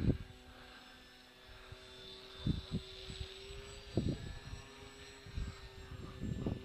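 Motor and propeller of a radio-controlled model Blackburn aircraft droning steadily in flight, with wind buffeting the microphone in a few short low thumps.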